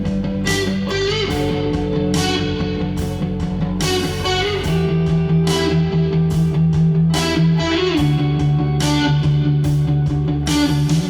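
Instrumental pop-rock: Fazley FTL200NT electric guitars over electric bass and a programmed drum kit keeping a steady beat. A held melody line bends in pitch a couple of times.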